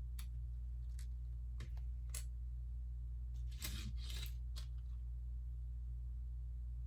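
Small plastic Lego pieces clicking and tapping as they are handled, with a few sharp clicks in the first two seconds and a short rustling scrape around the middle, over a steady low hum.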